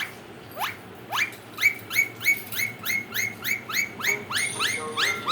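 Indian ringneck parakeet giving a rapid run of short, sharply rising calls, about three a second and speeding up slightly.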